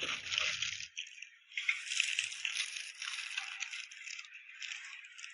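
Light, irregular rattling and rustling of replacement suspension arms and bushings being handled.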